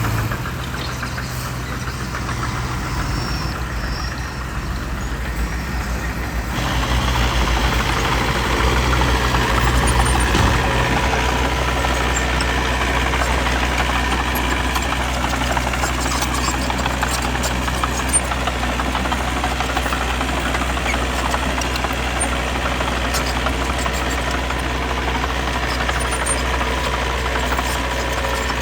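Diesel engine of earthmoving machinery running steadily, growing louder and fuller about six and a half seconds in, with a single sharp knock near the middle.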